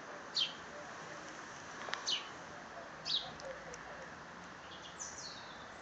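Small birds chirping: a handful of short, high chirps, each falling in pitch, spaced about a second apart, over a steady faint hiss.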